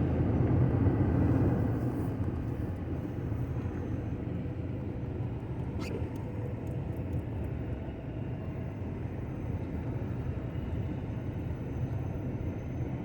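Steady low rumble of a vehicle driving, slightly louder in the first couple of seconds, with a single faint click about six seconds in.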